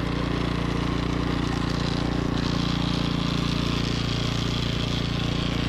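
Troy-Bilt snowblower's engine running steadily.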